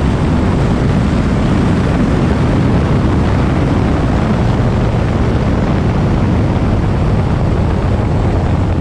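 Turbocharged LSX V8 of a Mazda RX-7 running steadily as the car rolls down the shutdown road after a drag pass, with wind rushing over the onboard camera's microphone.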